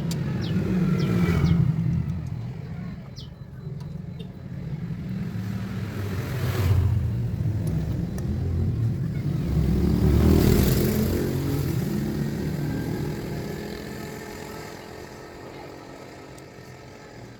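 Motor vehicles passing by one after another, each engine rumble swelling and then fading, loudest about a second and a half, seven and ten seconds in.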